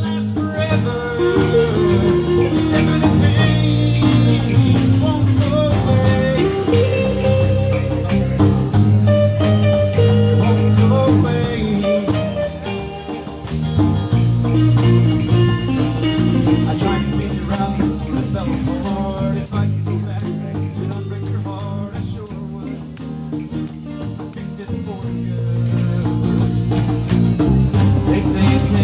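Live blues band playing an instrumental passage, with a steady bass line, drums and a bending lead melody on top. The band plays softer for a few seconds in the second half, then builds back up near the end.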